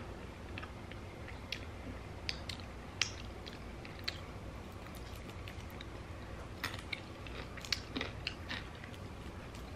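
Chewing a chicken wing close to the microphone, with scattered soft clicks from the mouth and from fingers picking the meat off the bone. A low steady hum sits underneath.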